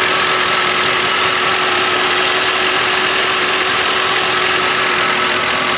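2006 Lincoln Town Car's 4.6-litre V8 idling steadily, heard from the open engine bay.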